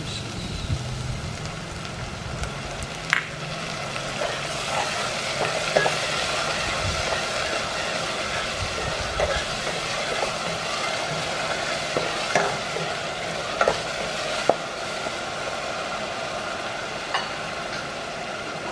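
Kroeung, a lemongrass and turmeric herb paste, sizzling as it fries in oil in a metal pot while a wooden spatula stirs it. The spatula scrapes and knocks sharply against the pot every few seconds.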